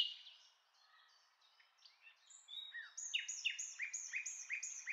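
Bird chirping faintly: after a near-silent stretch, a quick series of repeated down-slurred chirps, several a second, sets in about halfway through.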